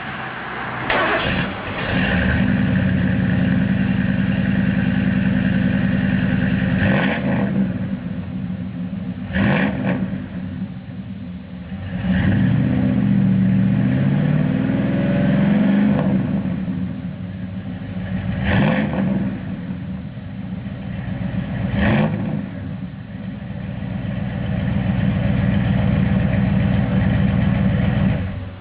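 Ford Bronco truck's engine revved loudly and repeatedly: held at high revs for several seconds at a time, with quick throttle blips that rise and fall in between and a couple of dips toward idle.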